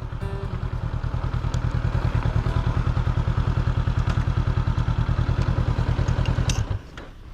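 Motorbike engine idling with an even, rapid putter of about a dozen beats a second, then it stops suddenly near the end.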